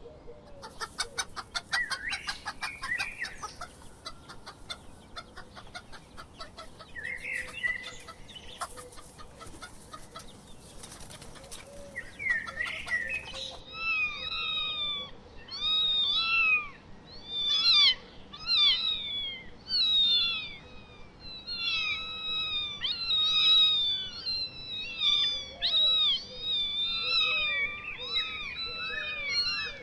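Poultry calling: after a stretch of rapid rustling and clicking with a few faint calls, a run of short repeated calls starts about halfway in and goes on several times a second.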